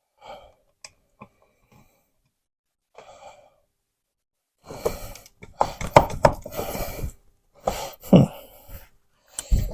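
Scraping, rubbing and light knocking as a telephone wall box is worked loose from a hole in drywall, hung up on leftover nubs of sheetrock. A few faint clicks come first, then about halfway through several louder stretches of scraping.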